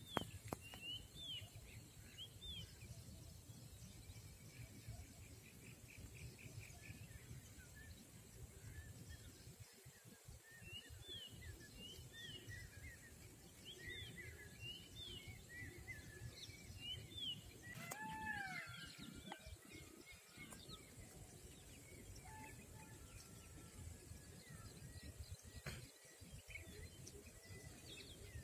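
Faint outdoor ambience with small birds chirping now and then: runs of short arched chirps, and a lower drooping call about eighteen seconds in, over a low steady rumble.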